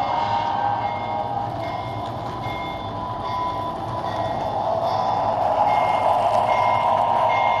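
Lionel O-gauge TMCC model locomotive running on the track: a steady whirring rumble with faint short high tones repeating about twice a second.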